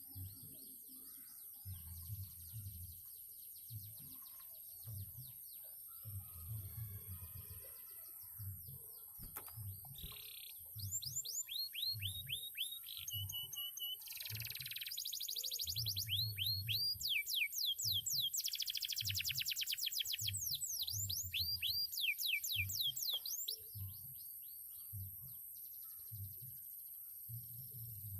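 Domestic canary singing: quiet twittering at first, then, from about ten seconds in, loud rolling trills of rapid falling notes that run on for over ten seconds before the song drops back to quieter twittering.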